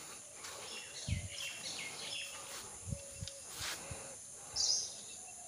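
Birds chirping now and then over faint outdoor background noise, with a few soft low thumps.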